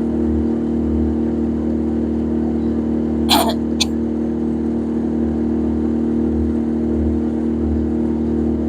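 Small boat's gasoline engine running steadily, with a brief sharp sound about three seconds in.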